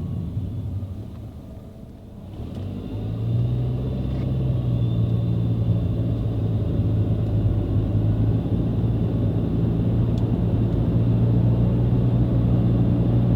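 2014 Nissan Altima on the move, a steady low drone of engine and road noise with the CVT freshly rebuilt with new bearings. The former bearing noise is absent, as the driver reports after the test drive. The sound dips briefly about two seconds in, then rises and holds steady.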